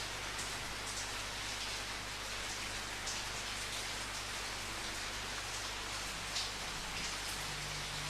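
Steady rain falling, a continuous patter with a few louder individual drops now and then.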